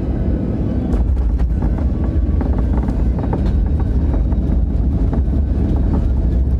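Loud low rumble of an airliner heard from inside the cabin during landing, strengthening about a second in, with cabin fittings rattling over it.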